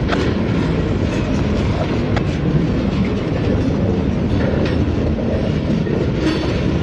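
Freight train of covered hopper cars rolling past at close range: a steady, very low rumble of steel wheels on the rails, with occasional clicks as the wheels cross the rail joints.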